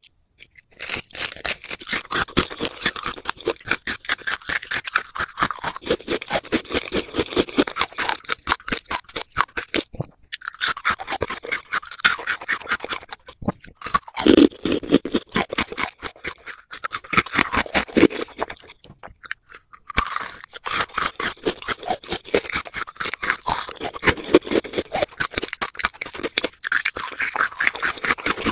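Close-miked chewing and crunching of gummy and jelly candies: dense, rapid crackling clicks, with short pauses between bites about ten, thirteen and nineteen seconds in.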